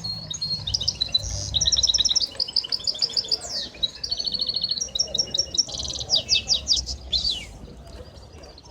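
Caged songbirds singing in fast trills and runs of quick repeated chirps, dying away near the end.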